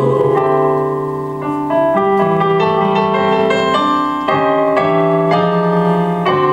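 Piano playing an instrumental passage of chords and melody notes, with new notes struck every fraction of a second.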